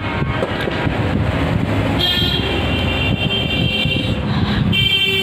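Road traffic running steadily, with a vehicle horn sounding one long blast about two seconds in and another starting near the end.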